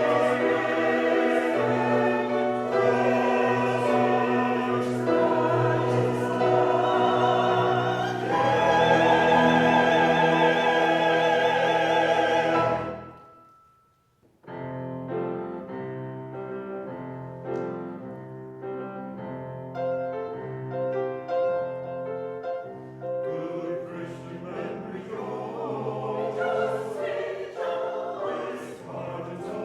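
Church choir singing with accompaniment, swelling loud before breaking off about thirteen seconds in. After a brief silence a quieter passage begins, and the music builds again near the end.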